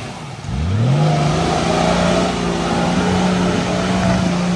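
Off-road 4x4's engine revs up sharply about half a second in and is held at high, steady revs as it tries to power through a deep mud hole.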